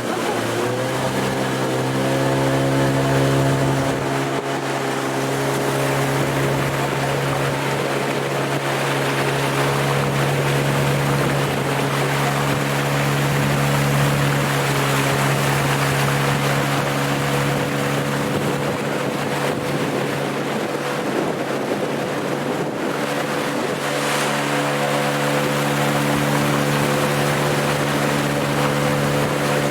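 Engine running at a steady pitch under a constant rush of wind noise. The engine's pitch dips and recovers just after the start.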